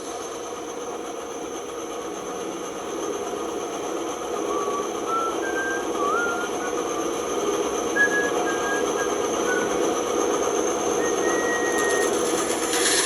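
Band saw running with its blade cutting through wood: a steady mechanical run that grows slightly louder, with a few brief high squeaks in the middle.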